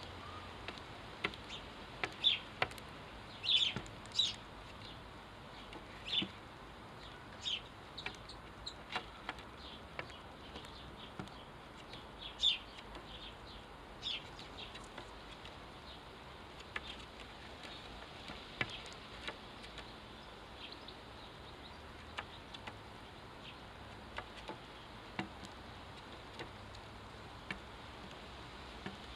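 Sparrows chirping: short, sharp chirps at irregular intervals, coming thickest in the first half and thinning out later.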